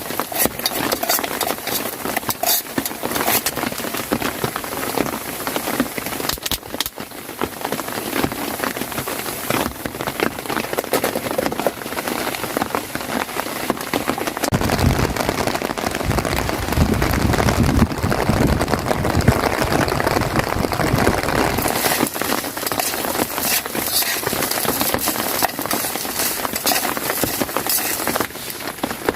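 Rain falling on a tent, many separate drops ticking over a steady hiss. A deeper rumble swells in the middle for about seven seconds.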